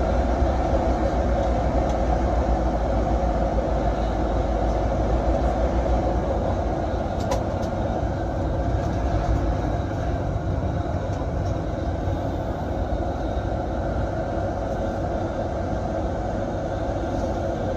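A bus running at highway speed: a steady engine and road rumble that holds level throughout, with a few faint ticks about seven seconds in.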